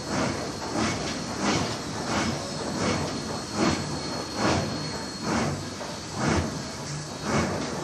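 Steam locomotive running, its exhaust chuffing at an even beat of about one chuff a second over a steady hiss.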